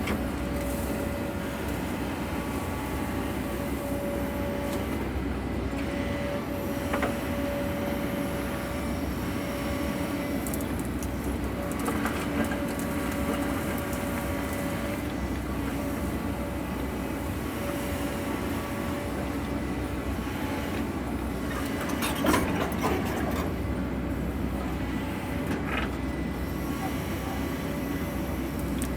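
Sany mini excavator running under work, a steady diesel drone with a steady high whine, broken by a few short knocks, the loudest about two-thirds of the way through.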